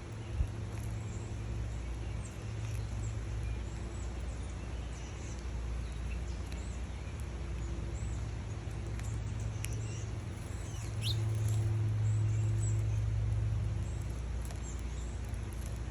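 Small birds chirping and twittering in short, high, faint calls over a steady low hum, the hum swelling louder about two-thirds of the way through; a single click sounds just after the start.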